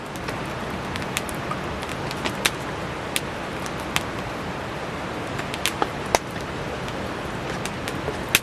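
Steady rain falling, with the irregular sharp pops and crackles of a wood campfire burning.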